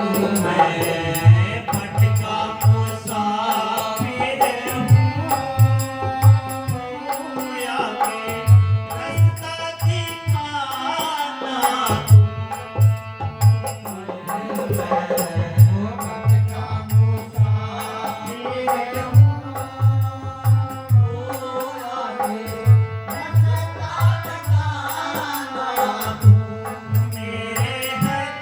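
A devotional shabad sung to the steady beat of a hand drum, the drum strokes falling in repeated rhythmic groups under the melody.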